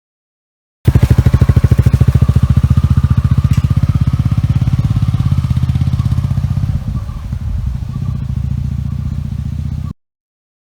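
An engine running with a fast, even pulse, starting and cutting off abruptly. It eases slightly partway through.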